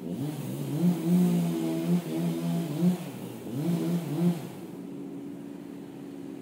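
An engine revving up and down in several bursts, then dropping to a steadier, lower-level run about two-thirds of the way through.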